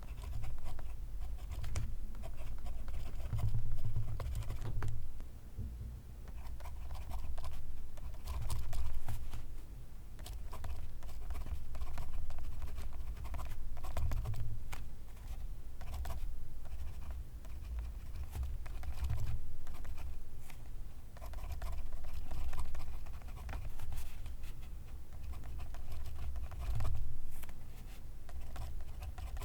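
Pencil lead scratching on paper in close-up: quick strokes in bursts with short pauses between, as words or marks are written.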